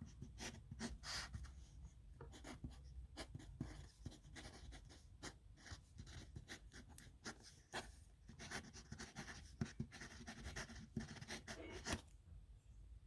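Pen scratching on paper in quick, short strokes as a signature is written by hand. The strokes stop about twelve seconds in.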